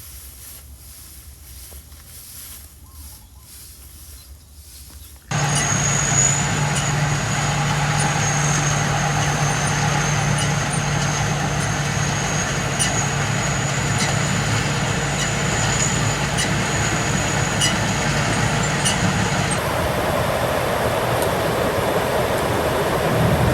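An engine running steadily with a low hum and a high whine, starting abruptly about five seconds in after quieter outdoor noise.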